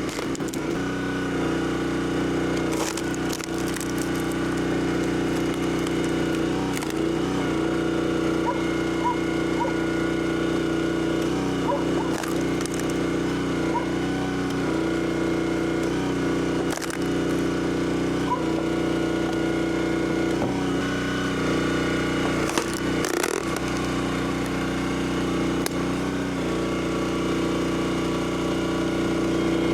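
Small gasoline engine running steadily, its even tone dipping briefly every few seconds as it takes load.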